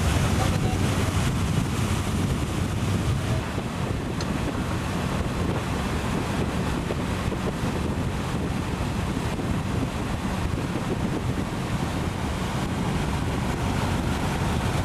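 Steady wind rushing over the microphone, over the sound of open water and a low, steady hum.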